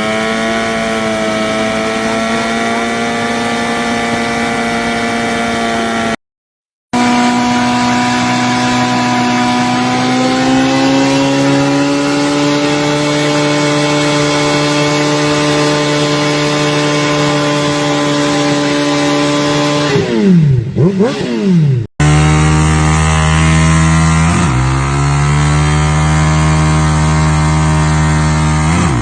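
Motorcycle engines held at high revs through burnouts, in several clips cut together. Near the end of the second clip the revs drop and are blipped up and down a few times.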